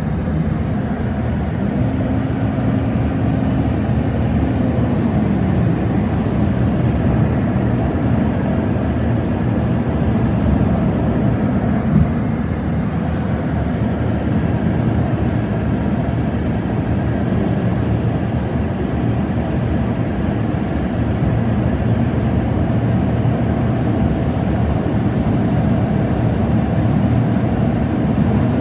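Steady road and engine noise of a car travelling at highway speed, with a low hum that drifts slowly in pitch. There is a single brief click about halfway through.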